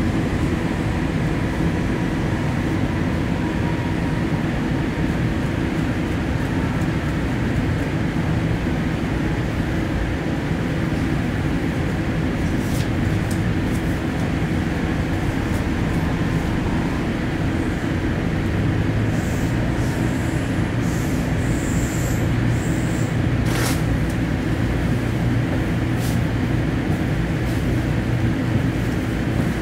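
Commuter train running, heard from on board: a steady rumble of wheels on the track with a low hum. From about halfway through come scattered short clicks and knocks.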